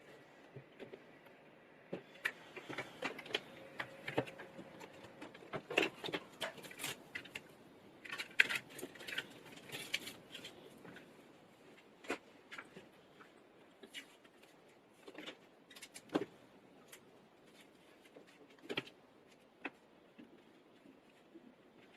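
Irregular light clicks, taps and rustles of small parts and tools being handled on a workbench, busiest in the first half and thinning out toward the end.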